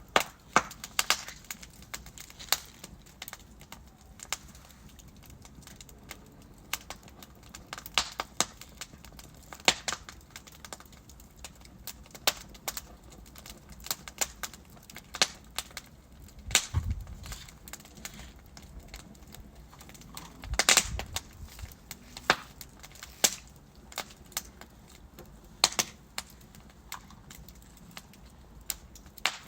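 Wood fire crackling, with irregular sharp pops and snaps from the burning logs over a low steady hiss, and a couple of deeper thuds from shifting wood about 17 and 21 seconds in.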